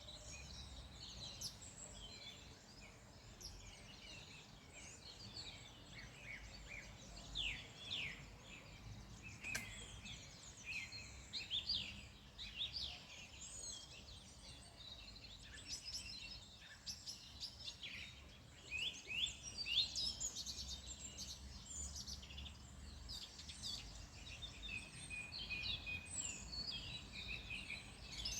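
A chorus of small birds chirping and singing in quick, overlapping phrases, over a steady low rumble of outdoor background noise.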